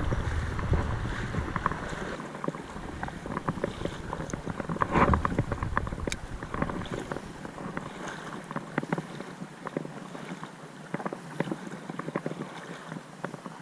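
Someone wading through a shallow creek: water sloshing and splashing around the legs, with scattered small knocks. Wind rumbles on the microphone for the first couple of seconds and again about five seconds in.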